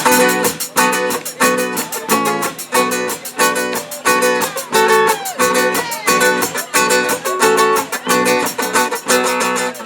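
Guitar strumming chords in a steady rhythm, with a few notes bending in pitch around the middle.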